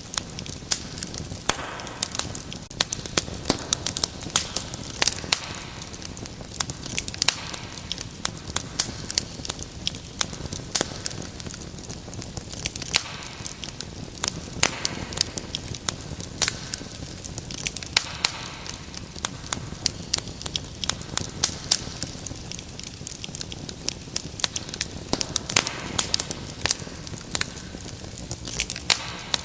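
Wood fire crackling steadily in a fireplace: a dense, irregular run of sharp pops and snaps over a low rumbling hiss of flame.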